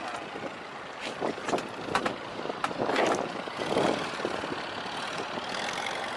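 Boat engine running steadily, mixed with water and wind noise, with several short bursts about one to four seconds in.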